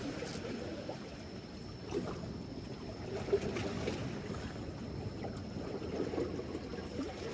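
Sea water sloshing and lapping against a seawall, with light wind on the microphone and a few soft knocks; a faint steady high tone runs under it from about half a second in.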